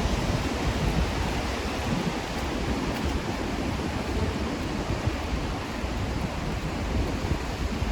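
Steady rain falling on a city street: an even hiss with a low rumble beneath it.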